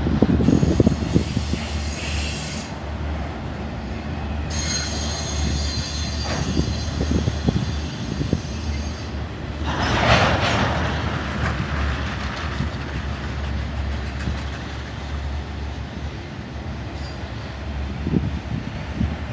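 Freight train of intermodal spine cars loaded with truck trailers rolling past: a steady rumble of steel wheels on rail with scattered knocks. Thin, high wheel squeal comes and goes in the middle, with a louder screech about ten seconds in.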